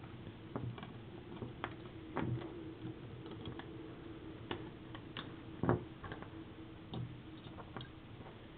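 Plastic Lego bricks clicking as they are handled and pressed into place: scattered sharp clicks, the loudest about halfway through, over a faint steady hum.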